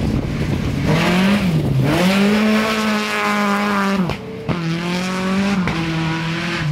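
Rally car engine driven hard and held at high revs as the car passes on a dirt stage. It breaks off sharply for a gear change about four seconds in, and the revs step down near the end.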